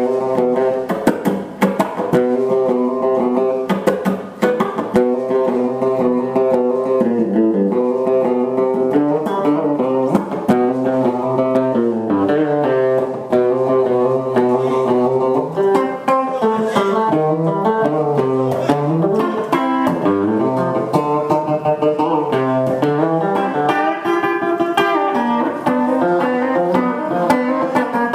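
Fender Telecaster electric guitar played through a guitar amplifier: a continuous stream of single-note licks and chords, with quick runs climbing and falling in pitch.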